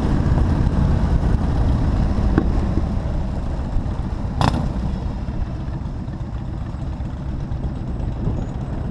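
Motorcycle engine running under way, a dense low rumble of engine and road noise that slowly eases off. A sharp click sounds about four and a half seconds in.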